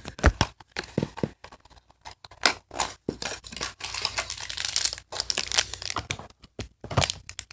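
Plastic blind bags crinkling and being torn open by hand, in irregular crackles.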